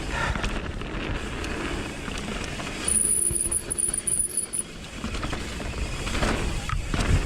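Mountain bike descending a trail, with tyres and wind giving a steady low rumble. About three seconds in, a high-pitched squeal lasting about a second and a half comes from the disc brakes, 203 mm Galfer Shark rotors with Hope V4 calipers, as they are applied.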